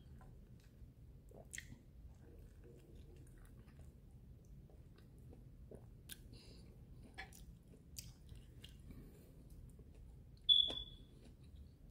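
Quiet chewing and wet mouth sounds of a person eating orange wedges, with scattered small clicks. About ten and a half seconds in comes a single short, high beep-like chirp, the loudest sound.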